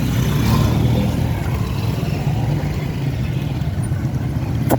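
Steady road traffic noise: vehicle engines running with a continuous low rumble. A short sharp click near the end.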